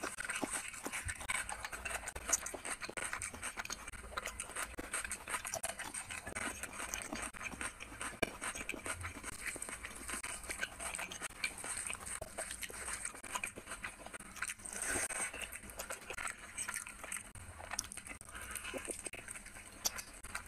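Close-miked chewing and lip-smacking of a person eating rice and chicken curry by hand, with wet squelches of fingers mixing the rice and curry.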